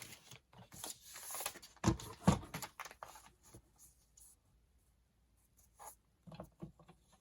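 Paper being cut, a light scraping hiss, then two sharp knocks about two seconds in and a few soft clicks of paper handling near the end.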